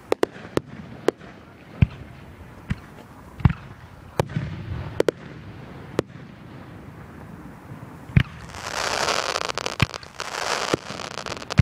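Fireworks going off: scattered sharp bangs and pops, then a dense rush of crackling about two-thirds of the way in.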